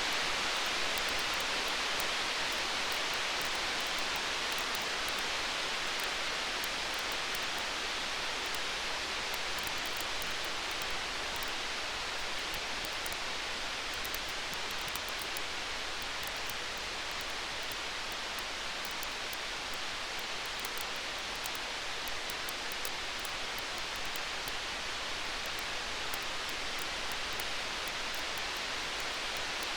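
Campfire burning steadily: a continuous hiss with many faint, scattered crackles and pops.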